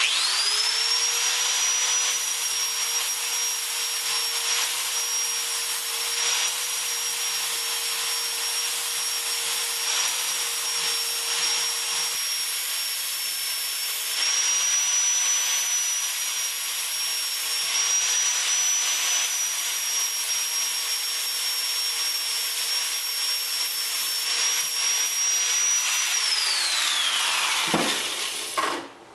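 Angle grinder with a flap disc spinning up and grinding down a fresh weld, a steady high whine over a rough rasping grind. About 26 seconds in it is switched off and winds down, the whine falling in pitch.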